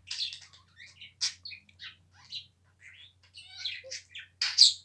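Pet bird chirping in a string of short, high-pitched calls, the loudest near the end.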